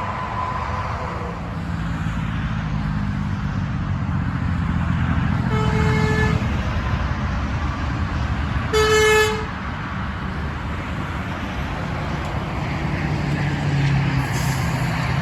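Truck horn sounding twice, two short blasts about three seconds apart, the second louder, over steady traffic noise.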